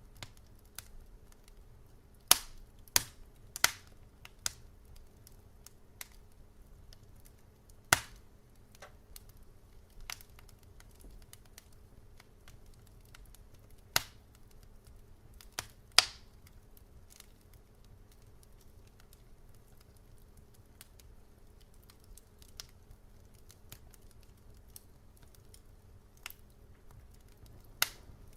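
Wood fire crackling: irregular sharp pops and snaps, a quick cluster a couple of seconds in and the loudest about halfway through, over a faint steady low hum.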